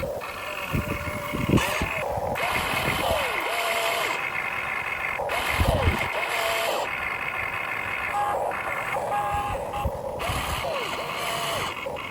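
Electric motors and gearboxes of a Huina 1592 RC excavator whining as they start and stop, rising and falling in pitch over and over as the arm, bucket and cab move. There are occasional low thuds, loudest about a second and a half in and again around six seconds in.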